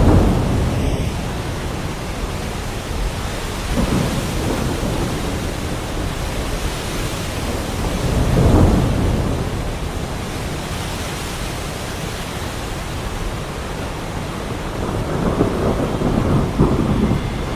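Heavy rain falling steadily, with thunder rumbling in several low swells that rise and fade, about 4 s in, strongest about 8.5 s in, and again near the end.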